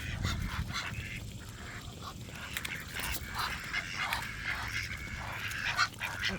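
A flock of ducks calling and quacking, many short calls overlapping one another.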